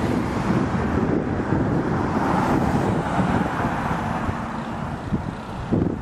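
Wind buffeting the microphone: a loud, uneven low rumbling rush, with a brief thump near the end.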